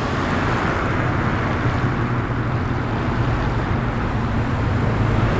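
Car engine running steadily as a panel van drives slowly past, a low even engine note with road and traffic noise, growing slightly louder near the end.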